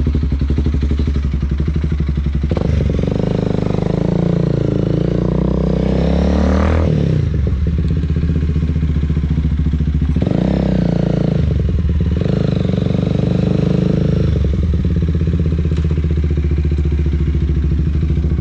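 Motorcycle engine running as the bike rides off. The note climbs under acceleration from about three seconds in, drops sharply near seven seconds as if on a gear change, and changes pitch again a few more times later on.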